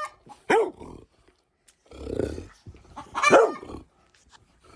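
Puppy barking in play: two short high barks, one about half a second in and a louder one just after three seconds, with a low growl between them.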